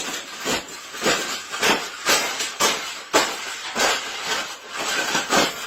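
Metal wire birdcage being bent and crushed: a run of sharp clanks and rattles, about two a second.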